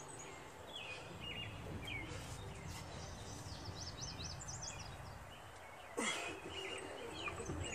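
Songbirds chirping in quick runs of short, high chirps during the first few seconds, over steady low background noise. A brief louder noise cuts in about six seconds in.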